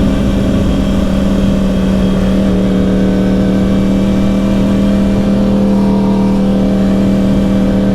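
2010 Yamaha R1's crossplane inline-four engine, breathing through dual Yoshimura exhausts, running at a steady cruising speed while the bike is ridden. Its note holds one even pitch with no revving, over a low rumble of wind and road.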